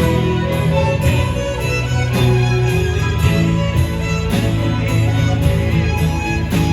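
A live band playing an instrumental break between sung verses, with a melodic lead line over sustained chords and a steady drum beat of about two strokes a second.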